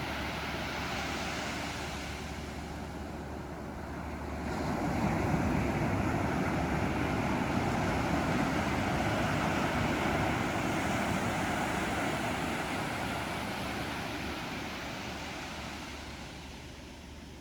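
Ocean surf on a beach: a steady wash of waves that swells about four seconds in, holds, then slowly fades toward the end.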